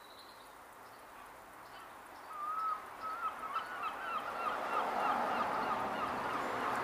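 A bird calling: one longer call about two seconds in, then a quick run of shorter repeated calls, two or three a second, over a rising rush of background noise.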